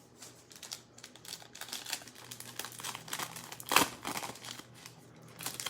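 Plastic foil wrapper of a football trading-card pack crinkling as it is torn open and handled: a run of irregular crackles, with one loud sharp crackle a little past halfway.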